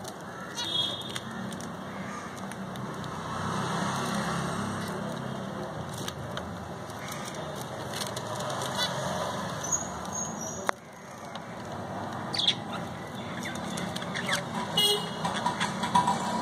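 Pet lovebirds giving a few short high chirps over a steady low background rumble.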